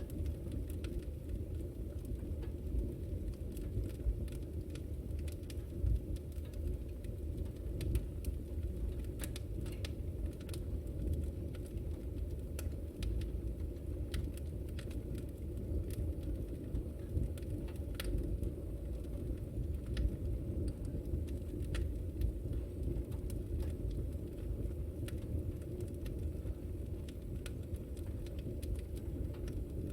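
Fireplace fire burning with a steady low rumble, and sharp irregular crackles and pops from the burning wood scattered throughout.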